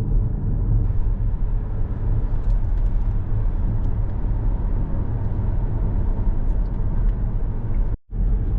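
Steady low road and engine rumble heard from inside a moving car, cutting out for a moment near the end.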